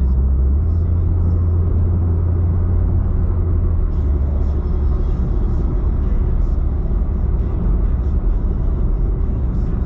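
Mazda 323 exhaust running with a deep, steady low drone. Its pitch steps up about half a second in and drops back near four seconds in as the engine revs change.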